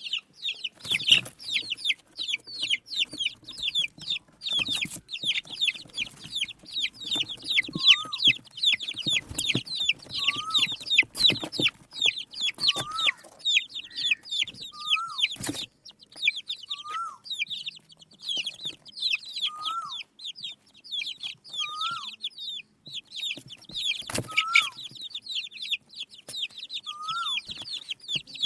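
Desi chicken chicks peeping rapidly and constantly, a flurry of high, short, downward-sliding peeps. From about eight seconds in, a lower short note that rises and falls repeats about every two seconds, and a few sharp knocks come through the peeping.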